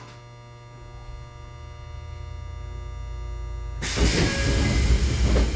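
Stopped Tobu 20400-series electric train's steady equipment hum. About four seconds in comes a sudden loud hiss of compressed air, lasting under two seconds, as the pneumatic doors open.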